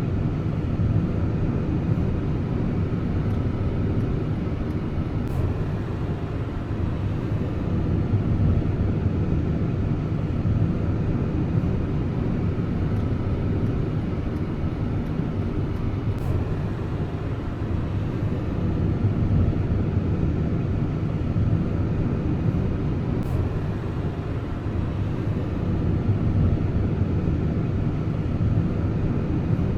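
Car driving at steady speed: continuous low road and engine rumble.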